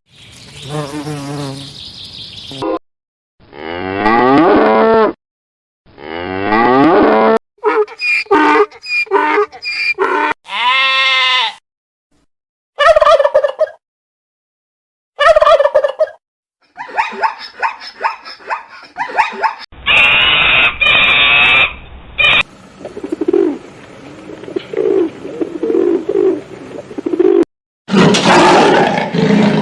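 A string of short farm-animal clips cut one after another, with cattle mooing loudly among them alongside other animal calls; each clip stops abruptly, with brief silent gaps between some.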